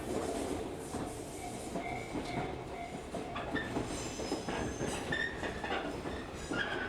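Local train running, heard from inside the passenger car: a steady rumble of wheels on the rails, with short high-pitched wheel squeals from about halfway in.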